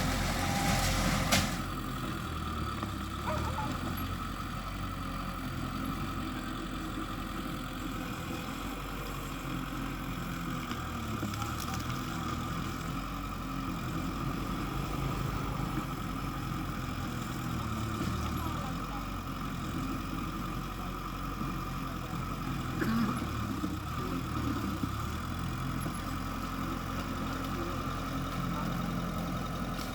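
Mitsubishi bulldozer's diesel engine running steadily, with a sharp metallic clank about a second and a half in and a fainter knock later.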